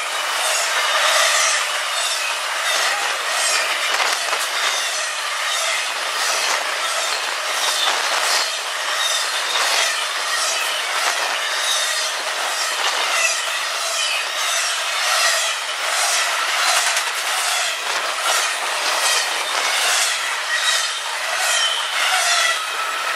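CSX double-stack intermodal freight train running past at speed. Its wheels click over the track in a steady string of sharp knocks, with brief high squealing tones now and then. The last cars pass near the end.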